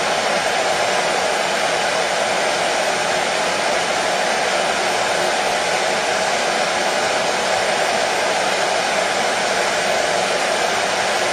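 Hair dryer running steadily: an even, unbroken rush of blown air with no change in speed.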